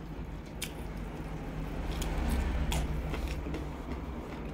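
Close-miked chewing of roast duck: scattered wet mouth clicks and smacks, with a low rumble swelling about two seconds in.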